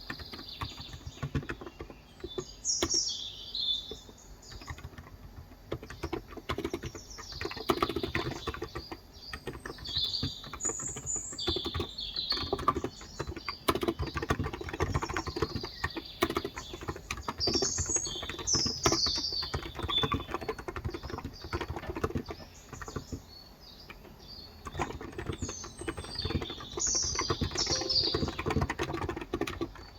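Continuous typing on a Cox Endeavour electro-capacitive keyboard with light 35 g switches, keystrokes in quick runs with a short lull about three-quarters of the way through. Small birds chirp and twitter over it at intervals.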